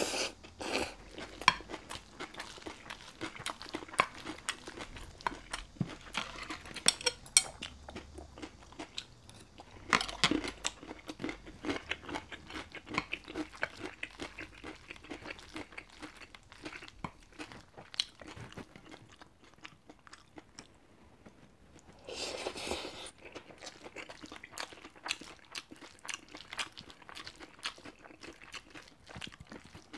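Close-miked chewing and crunching of a mouthful of beef bibimbap, wet mouth clicks and crisp bites, with occasional knocks of a wooden spoon against the ceramic bowl.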